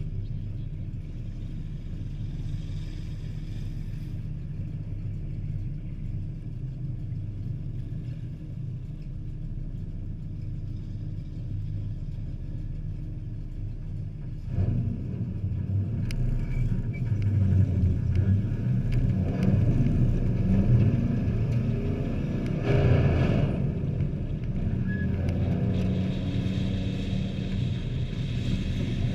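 Engines of a field of hobby-class race trucks running on the oval, getting louder about halfway through, then rising and falling as trucks pass.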